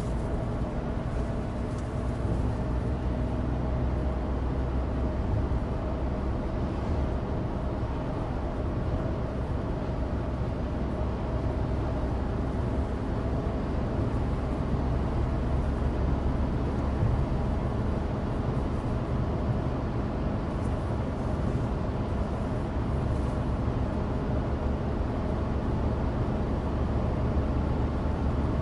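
Inside the cabin of a 2016 Suzuki Alto Turbo RS, its 660 cc turbocharged three-cylinder engine running steadily under way, with tyre and road noise from studless winter tyres.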